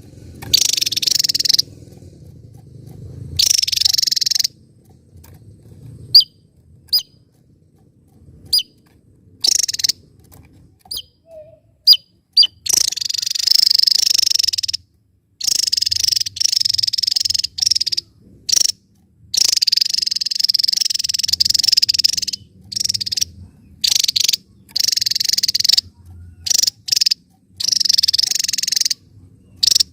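Javan tesia singing: repeated bursts of dense, high-pitched chattering, each one to two seconds long, with short single chips in between.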